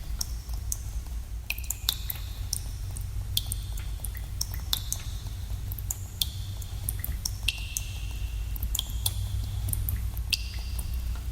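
Water drops falling in a cave, each a sharp plink with a short ringing tone that fades, landing at uneven intervals over a steady low rumble.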